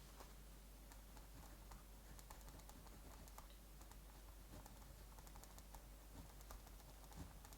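Faint, quiet ambience: scattered small clicks and crackles over a steady soft hiss, the clicks coming more thickly around the middle.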